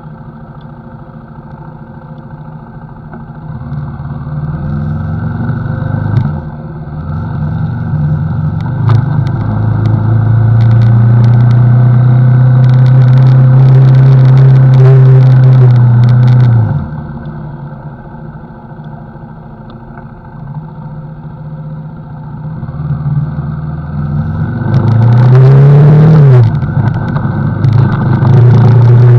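CFMoto NK motorcycle engine accelerating and revving up through the gears, with a brief dip at a gear change about six seconds in. It then holds high revs for several seconds before the throttle closes and the revs fall away to a low run. Near the end it revs up again, with another quick shift.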